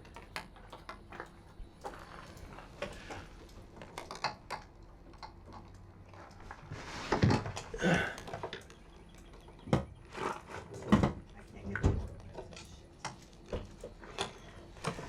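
Hand tools being handled: scattered small metallic clicks and clinks with a few louder knocks, the sockets and extension worked at the generator's oil drain plug.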